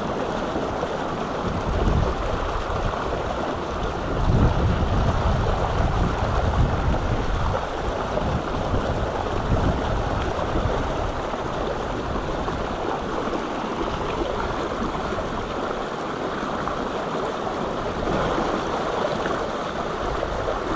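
Mountain stream rushing over rocks, a steady wash of water noise with a deeper rumble that swells in and out now and then.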